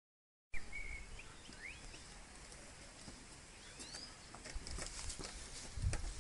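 Outdoor ambience with a few short bird chirps, some rising in pitch, after half a second of silence at the start. Low thumps and knocks come in near the end.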